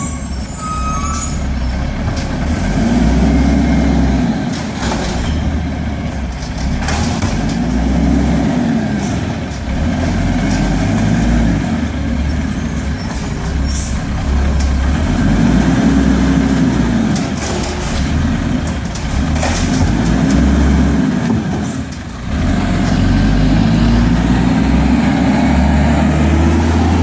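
Garbage truck engine rising and falling in pitch about every four seconds, with short air-brake hisses in between.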